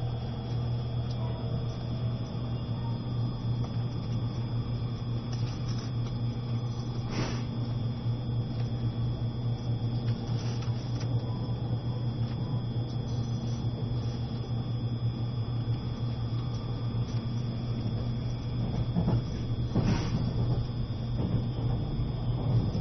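Cabin sound of an E653 series electric limited express train in motion: a steady low hum, with a couple of brief knocks.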